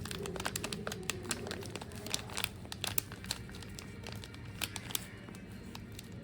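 Packet of peri peri spice mix crinkling as it is handled and squeezed, a run of quick sharp crackles, densest in the first half and again about five seconds in.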